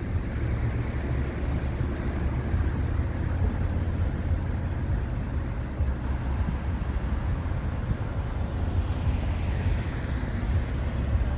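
A car on the move: a steady low engine and road rumble, with wind noise on the microphone.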